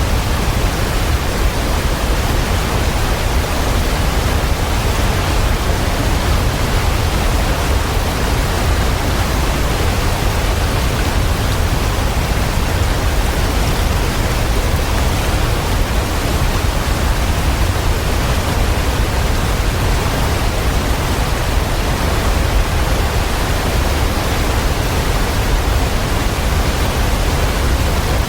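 Waterfall: steady, unbroken rush of falling water, heavy in the low end, with no change in level.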